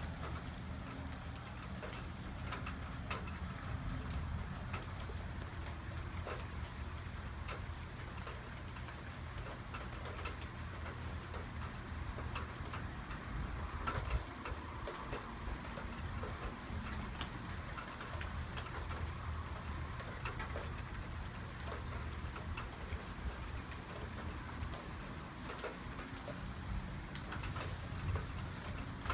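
Heavy thunderstorm rain falling steadily, with many scattered sharp ticks of drops striking hard surfaces.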